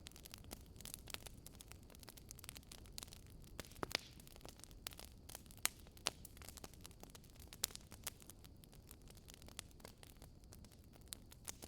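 Wood fire crackling: irregular sharp crackles and pops, a few of them louder, over a faint low rush of the flames.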